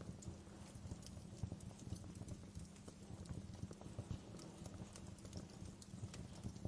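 Wood fire burning in a fireplace, crackling with irregular small pops and snaps over a low rumble.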